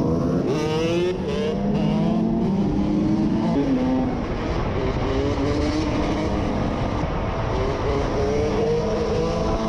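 KTM SX 150 two-stroke motocross engine being ridden hard, its pitch climbing under throttle and dropping back again and again through the gear changes.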